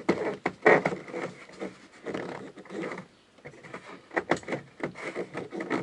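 A tight-fitting interior panel being worked loose by hand: rubbing and creaking broken by irregular knocks and clicks, the loudest knock under a second in.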